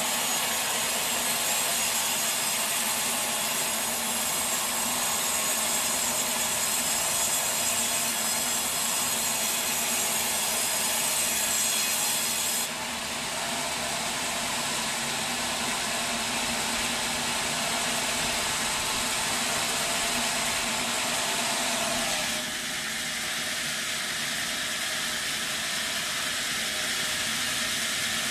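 Sawmill saw running steadily through a log, a continuous hissing cutting noise. The sound changes abruptly about 13 seconds in and again about 22 seconds in, as if cut between takes.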